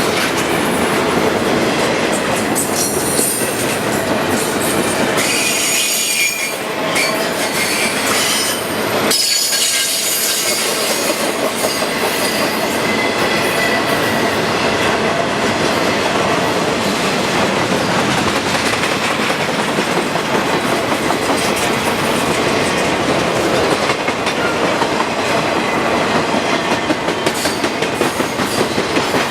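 Intermodal freight train rolling past on steel rails, with high squealing tones from the wheels in the first ten seconds or so. Toward the end, wheels beat rhythmically over the rail joints.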